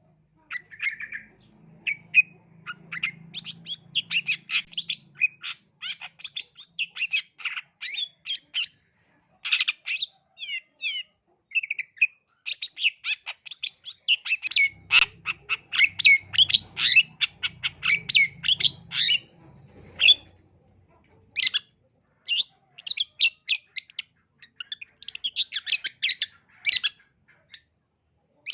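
Long-tailed shrike (cendet) singing: fast, varied chattering notes in dense runs, broken by a few short pauses.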